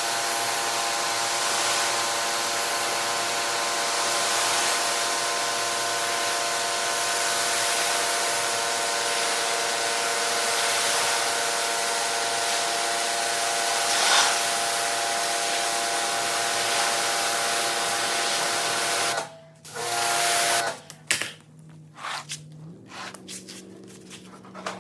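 Pressure washer spraying: a steady hiss of the water jet over a steady pump hum, cutting off abruptly about three-quarters of the way through. Quieter, broken sounds follow.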